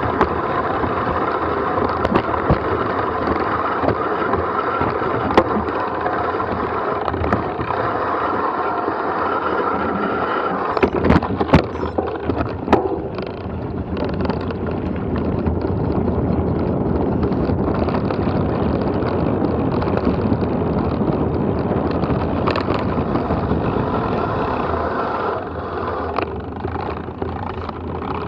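Mountain bike rolling down a rough forest trail: steady tyre and rattle noise with wind on the microphone, and a cluster of sharp knocks from bumps about eleven to thirteen seconds in.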